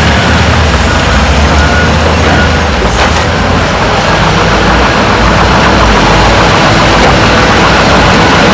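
Heavy construction machinery running: a steady diesel engine drone under a loud, noisy rumble, with one sharp knock about three seconds in.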